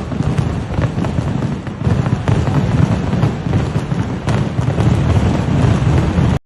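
Kerala temple fireworks barrage: a dense, unbroken run of cracks and booms that merge into a continuous rumble.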